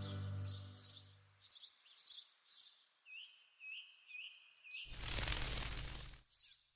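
Music fades out in the first second or so, giving way to small birds singing: a run of short, high chirps about two a second, then a series of short rising notes at the same pace. About five seconds in, a loud rush of noise lasting over a second cuts in, and a few faint chirps follow near the end.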